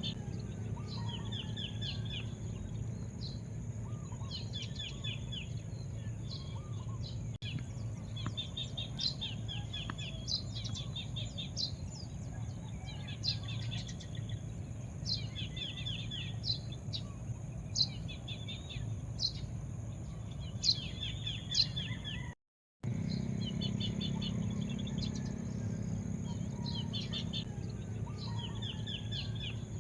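Birds chirping: short trilled phrases and sharp high calls repeated again and again, over a steady low background rumble. The sound cuts out completely for a moment about two-thirds of the way through.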